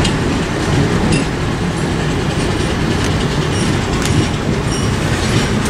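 Diesel-hauled passenger train rolling along the track, a steady rumble with light clatter from the wheels.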